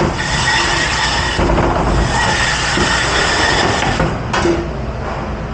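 Steady rush of a commercial dish pit: water spraying and the dish machine running. The rush eases about four seconds in, followed by a short knock.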